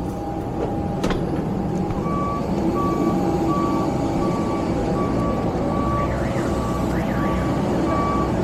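Vehicle reversing beeper sounding, starting about two seconds in and repeating evenly at about three beeps every two seconds, over a steady low engine rumble.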